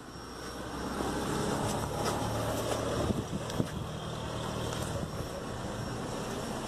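Vehicle engine running steadily with a low hum, under wind and road noise; the hum eases off about five seconds in.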